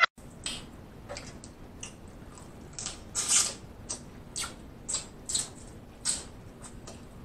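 Close-miked eating of king crab: wet chewing and lip smacks, with small sharp clicks and crackles from meat being picked off the shell, coming irregularly about twice a second.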